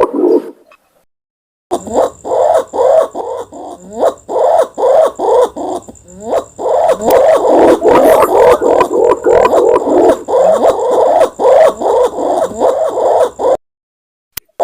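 Imperial pigeon (pergam) calling: a rapid run of deep, pulsed coos, several a second, some sliding down in pitch. The calling cuts off abruptly near the start and again near the end, then resumes.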